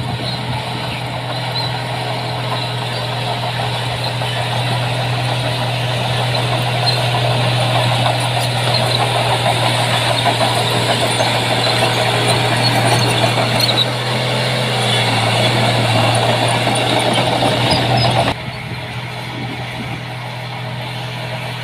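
Heavy diesel engine of earthmoving machinery running under load: a steady low drone with dense mechanical clatter above it. It grows louder through the first half and drops abruptly near the end.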